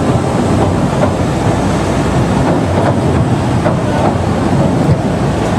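Ōigawa Railway Ikawa Line train running at steady speed, a continuous rumble of wheels on rails with scattered clicks over rail joints.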